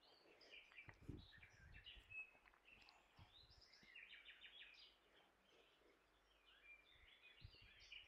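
Faint birds chirping and twittering in short trills, with a few soft low bumps about a second in and again near the end.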